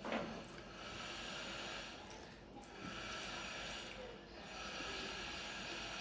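Breathing close to the microphone during a meal: slow swells of hissing breath about every two seconds, with a short sharp mouth sound right at the start.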